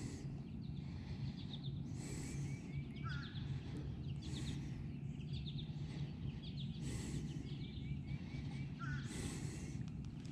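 Small birds calling in short repeated chirps over a low steady hum, with regular soft rushes of noise about every two and a half seconds.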